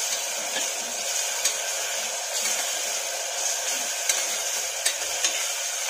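Chopped onion and ginger-garlic paste sizzling steadily in hot oil in an aluminium pressure cooker while being stirred with a spatula, with a few sharp clicks.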